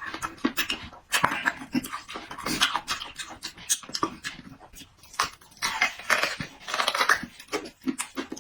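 A person eating close to the microphone: wet chewing and lip-smacking with many short clicks, broken by quick breaths.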